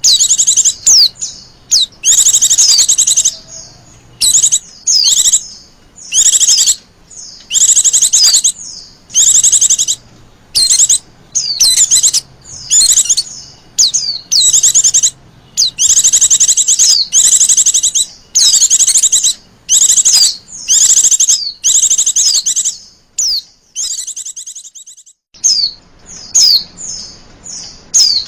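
Female white-eye (Zosterops) calling: high, rapid trills of about a second each, repeated over and over, with short down-slurred chirps between them. There is a brief pause about 24 seconds in.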